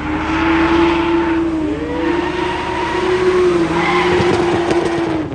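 Tyres of a drifting car squealing in one long, wavering screech, with the car's engine running beneath.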